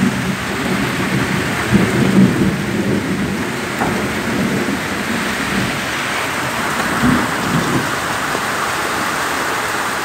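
Steady heavy rain with a long, uneven rumble of thunder that fades out near the end.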